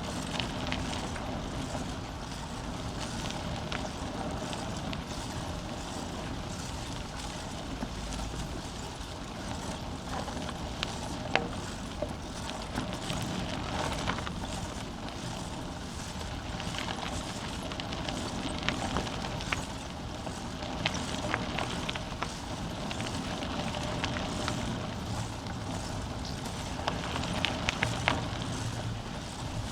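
Bicycle being ridden: steady rolling noise with frequent small clicks and rattles from the bike, and a few sharper knocks about eleven seconds in and near the end.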